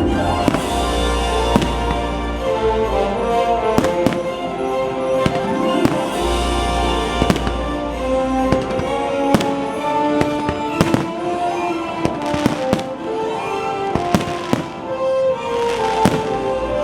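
Fireworks bursting and crackling over a loud orchestral show soundtrack. The bangs come irregularly, with quick clusters of pops about two thirds of the way in and again near the end.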